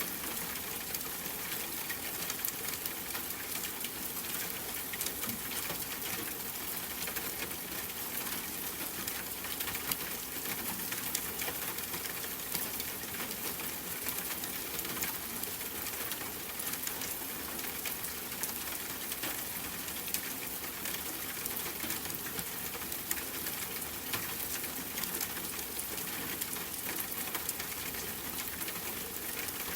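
Steady rain falling, an even wash of noise with a dense patter of fine drops.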